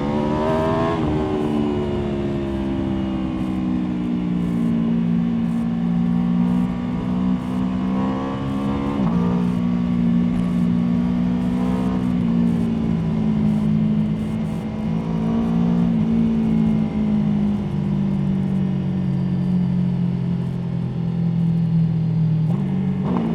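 Aprilia Tuono V4 motorcycle's V4 engine running under way, its note rising and falling as the throttle is worked. The revs climb sharply in the first second, rise and drop again about a third of the way in, ease down slowly over the last several seconds, then pick up sharply at the very end.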